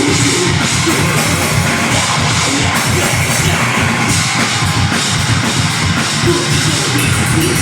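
Deathgrind band playing live at full volume: fast, dense drumming under distorted guitar and bass, with no breaks.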